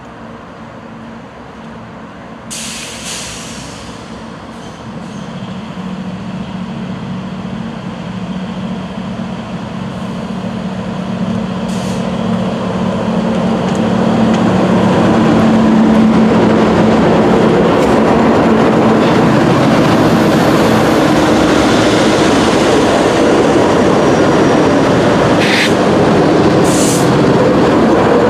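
Diesel freight locomotives approaching, their engines droning louder and louder, then the train passing close by with a loud steady rumble of wheels on rail and a few sharp clicks.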